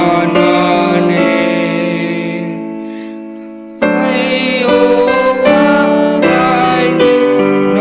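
Piano-style keyboard playing a slow hymn accompaniment. A held chord fades away for about three and a half seconds, then new chords come in sharply about halfway through.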